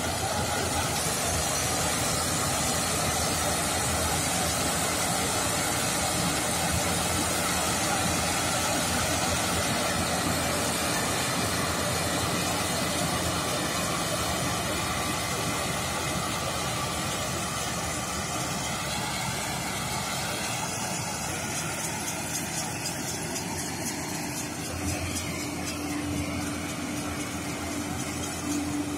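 Kubota ER112 combine harvester running steadily, a constant mechanical din of engine and working machinery. A steady low hum joins in near the end.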